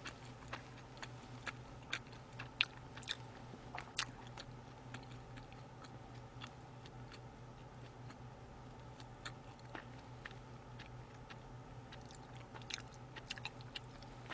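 Faint, scattered mouth clicks close to a microphone: chewing in the first few seconds, then sips and swallows from a soda can near the end.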